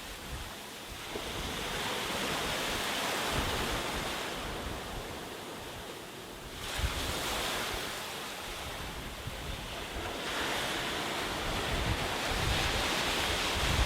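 Sea waves breaking and washing up a beach, a new surge every few seconds, one breaking sharply about seven seconds in.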